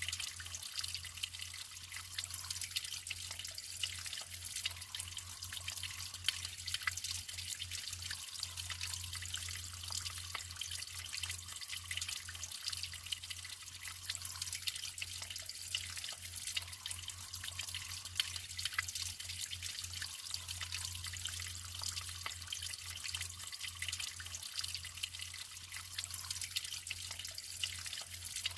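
Natural flowing water running steadily, a constant hiss with a dense patter of small splashes and a low steady rumble underneath.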